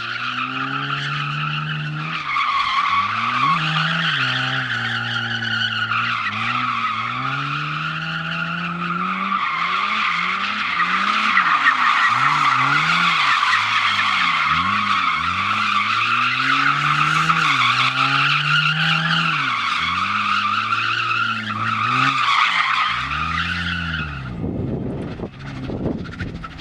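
A car drifting: its tyres squeal continuously while the engine's revs rise and fall again and again as the throttle is worked. The squeal stops a couple of seconds before the end, leaving wind noise.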